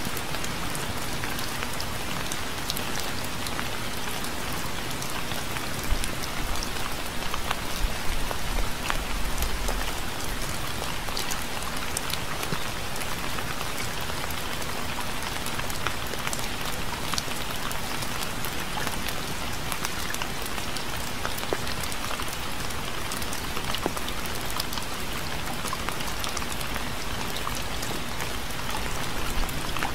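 Steady, even rain falling on a surface, with many distinct drop ticks over the hiss. A low rumble swells briefly about six seconds in and fades out by about ten seconds.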